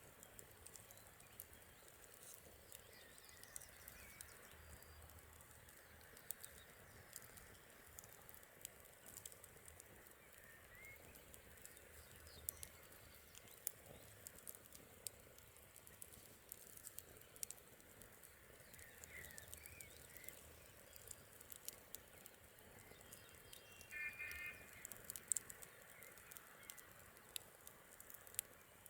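Faint campfire crackling, with many small sharp snaps and pops. A few short bird chirps come through, and near the end there is a brief rapid, rattling call.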